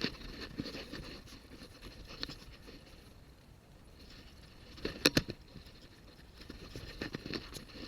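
Scraping and rustling of objects being handled, with a quick cluster of sharp clicks and knocks about five seconds in.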